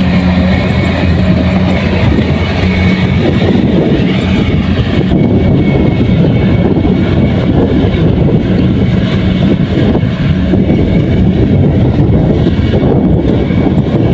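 Kubota rice combine harvester running, a loud, steady engine and machinery drone without a break.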